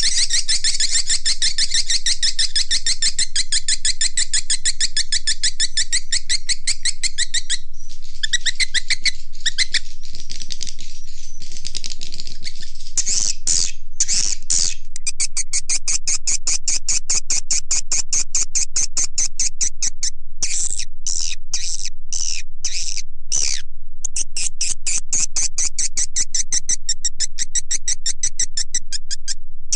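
Swiftlet calls from a lure-call track: rapid, unbroken trains of high, clicking chirps. The trains pause briefly about a third of the way in, and again several times in short gaps past the middle. This is the call that swiftlet farmers play through speakers to draw swiftlets to nest in their bird houses.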